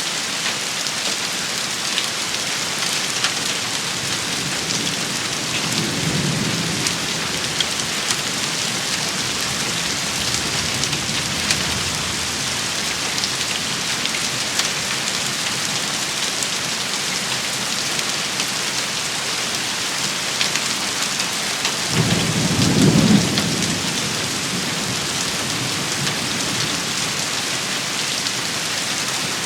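Steady heavy rain pattering on surfaces. A low rumble of thunder comes in about six seconds in, and a louder, closer rumble about three quarters of the way through.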